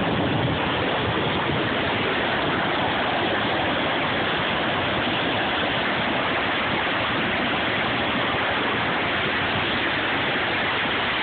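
Middle Fork of the Popo Agie River in flood, its whitewater rushing in a loud, steady, unbroken roar.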